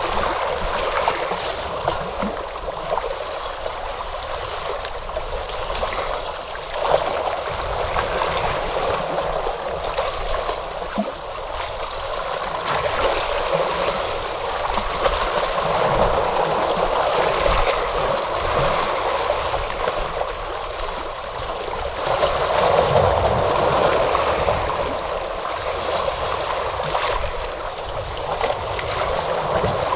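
Ocean waves washing in without a break, swelling louder around the middle and again about two-thirds of the way through.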